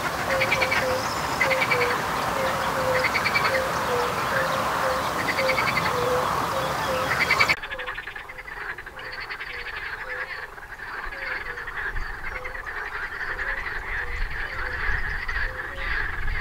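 A chorus of frogs calling: many short notes repeated over and over, with rattling trills on top. About halfway through it abruptly turns quieter, the calling going on.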